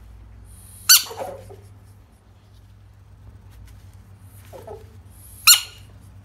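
Two short, sharp high squeaks about four and a half seconds apart, each trailing off into a lower, falling sound, over a steady low hum.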